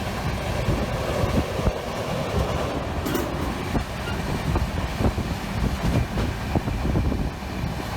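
Passenger train running along the track: a steady low rumble with irregular clatter of the wheels over the rails. A brief sharp noise about three seconds in.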